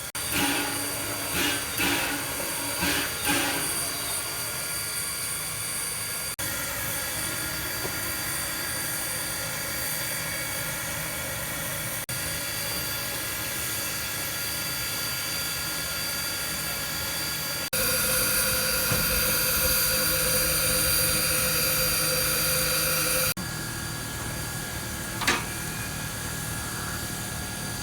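Steam locomotive's steady hissing and machinery noise, cut between several shots, with a few short louder bursts in the first seconds and a louder stretch a little past the middle.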